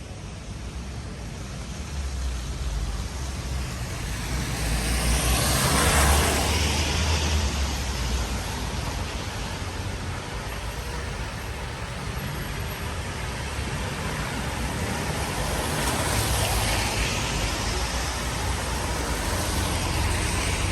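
Cars passing on a wet street: tyre hiss swells to a peak about six seconds in, and another vehicle comes by near the end, over a steady hiss of rain.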